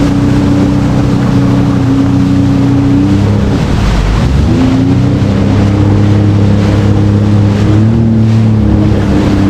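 Jet ski engine running loudly at speed, with wind and water rushing. About three seconds in, the engine note dips and then climbs back up.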